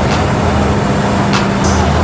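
Engine of a big-turbo Citroën Saxo VTS running at steady revs, with a few short sharp clicks.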